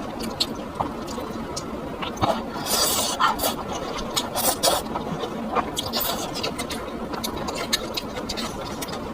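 Close-miked eating sounds: wet chewing and mouth smacking, with many short irregular clicks.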